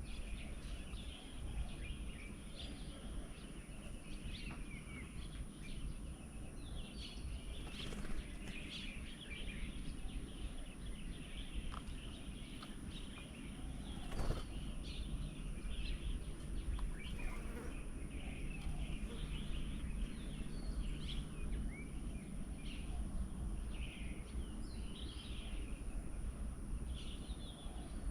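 Many small birds chirping and calling in short, overlapping notes, over a steady high-pitched buzz and a low rumble.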